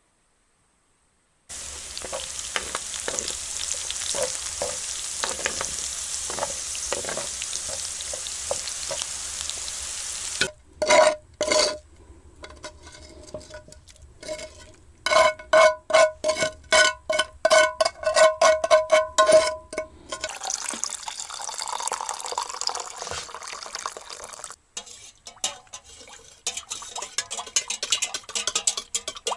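Food sizzling in a hot pan for about nine seconds, then a run of sharp ringing knocks, two or three a second, like a utensil striking a metal pot, followed by more sizzling and clicking.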